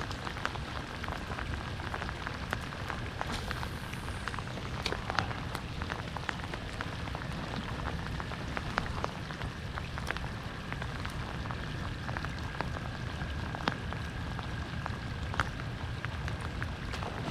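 Steady rain falling on a river, with scattered sharp ticks of individual drops landing close by.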